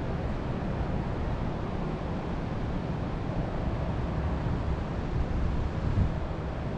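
Wind blowing through forest trees and buffeting the microphone as a steady, gusting low rumble with a rushing hiss above it.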